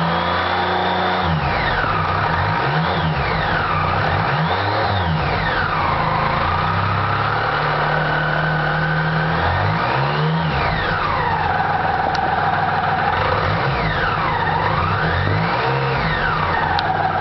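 BMW K75 RT's three-cylinder engine running cold, revved up and let back down about half a dozen times, with a steady stretch at higher speed in the middle. The title points to an unexplained noise on cold start.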